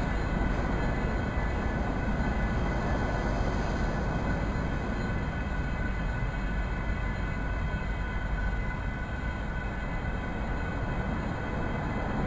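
Union Pacific freight train's cars rolling past over a level crossing: the steady noise of steel wheels on the rails.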